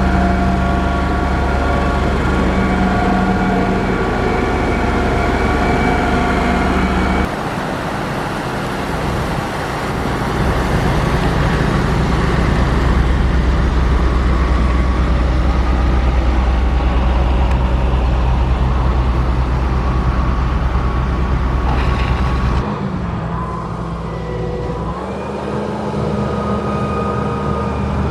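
Heavy diesel engine of a motor grader running steadily under load. Its sound changes abruptly about a quarter of the way in and again near the end.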